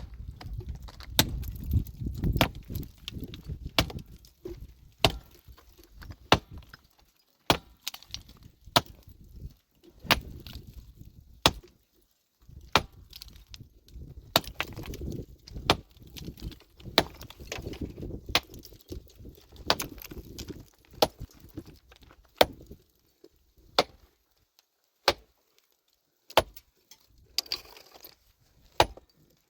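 A metal tool striking rock again and again, sharp clinks about once a second, as stone is broken up. A low gritty rumble of shifting rubble runs between the strikes for most of the time, then thins out near the end.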